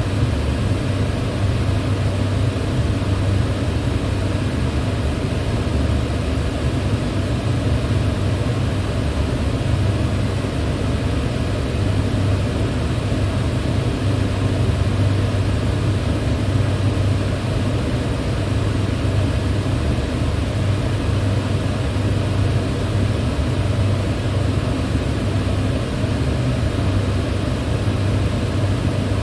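Electric fan running steadily: an unchanging rush of air over a low hum.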